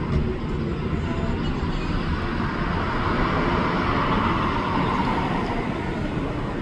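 A vehicle passing by over a steady low rumble of traffic noise, its sound swelling up through the middle and fading again.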